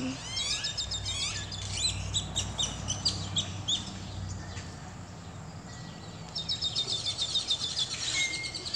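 Small birds chirping in quick runs of high, sweeping notes. One run lasts from just after the start to about four seconds in, and another starts at about six seconds.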